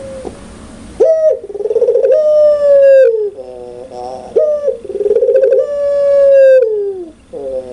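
Puter pelung dove cooing loudly: each phrase is a rolling trill that runs into a long held note sliding slightly down in pitch. It starts about a second in, gives two full phrases with a softer call between them, and begins another near the end.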